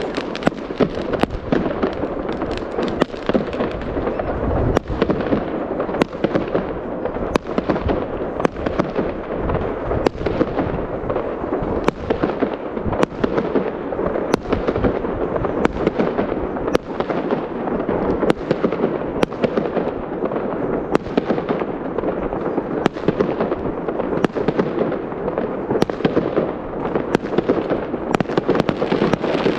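Fireworks display: a steady run of sharp shell bursts, one or two a second, over continuous crackling from the burning stars.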